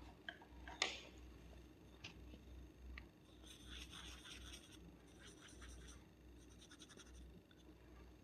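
Faint fingernails scratching and rubbing through hair on a scalp, with a sharp click about a second in and a denser run of quick scratching strokes from about halfway on.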